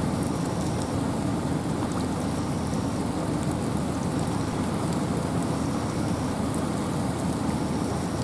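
Wind and rain in a forest: a steady, even rush of rain with a low wind rumble underneath.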